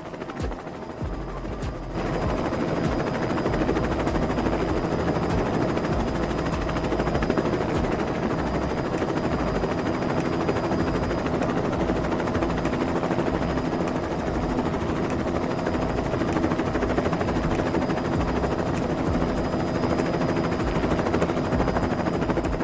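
A helicopter-like rotor whirring with a rapid, steady chop, starting about two seconds in.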